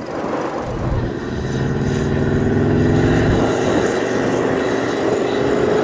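Off-road competition vehicle's engine revving, its pitch climbing slowly and steadily over several seconds.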